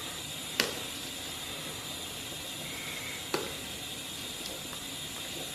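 Pot of lamb in water at a boil, giving a steady hiss, while the scum is skimmed off; two sharp knocks, about half a second in and again about three seconds later, from the utensil against the pot.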